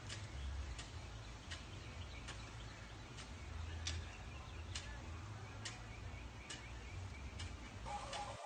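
Faint, regular ticks a little more than once a second from a garden hoe chopping at weeds in dry soil, over a low rumble.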